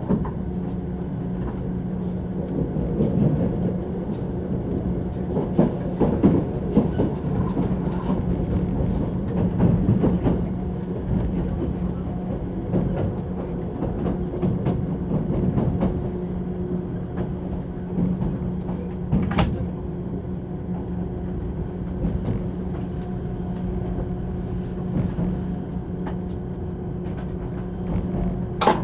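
JR 185 series electric train running, heard from inside the passenger car: steady rumble of wheels on track with a constant hum, swelling for a while early in the stretch. Two sharp clicks stand out, one about two-thirds of the way through and one near the end.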